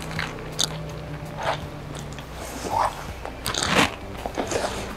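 Crunching as a crispy pan-fried rice paper dumpling is bitten into and chewed: a handful of crisp crunches, the loudest about four seconds in.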